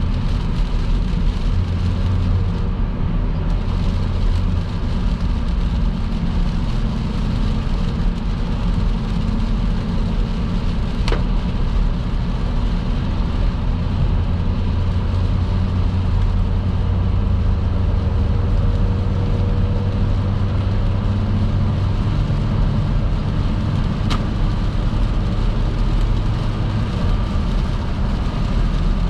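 Car driving at steady highway speed on a wet road: a constant low rumble from the engine and tyres under an even wash of road and rain noise.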